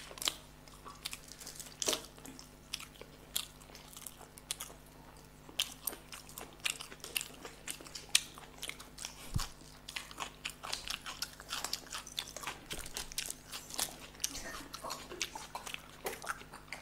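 Close-miked chewing and mouth sounds of people eating boiled eggs in masala gravy: a steady stream of short clicks and smacks. A faint steady hum lies underneath.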